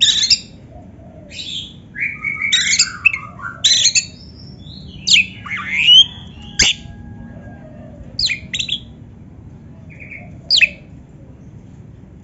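Oriental magpie-robin (kacer) singing: a run of short, varied phrases of sweeping whistles and harsher chirps, with pauses between them. A single sharp click comes about six and a half seconds in.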